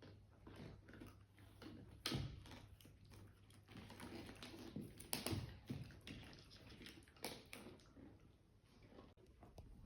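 A pet chewing, faint and irregular, with soft clicks and smacks. The loudest come about two seconds in and again around five seconds in.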